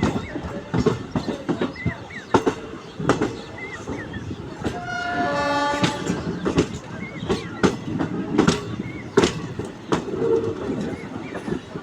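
A train rolling over rail joints and points, its wheels clattering in irregular sharp knocks over a steady rumble. About five seconds in, a brief run of stepped tones sounds for about a second.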